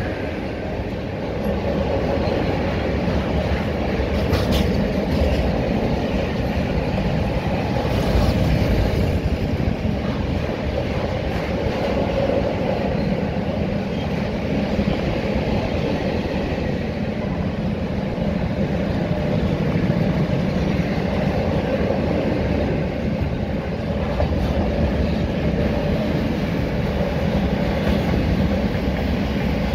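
Open-top freight wagons of a long goods train rolling past close by: a steady rumble of steel wheels on the rails, with an occasional faint knock.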